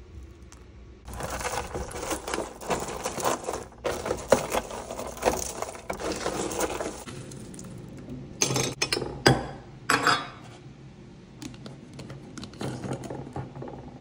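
Crunchy baked granola clusters being handled and poured through a metal funnel into a glass jar: a dense rattle of pieces against metal and glass, followed by a few separate clinks and knocks.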